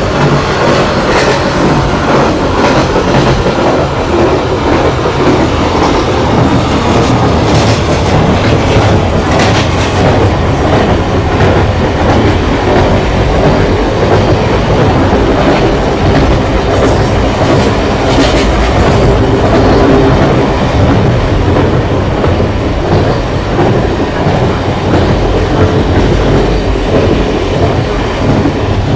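Diesel-hauled train carriages running past: a steady loud rumble with the wheels clattering over rail joints, the clacks coming thickest in the first ten seconds and again about eighteen seconds in.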